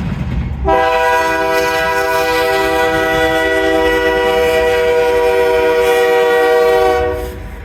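Diesel freight locomotive's air horn sounding one long steady blast, starting just under a second in and cutting off near the end, over the low rumble of the passing train.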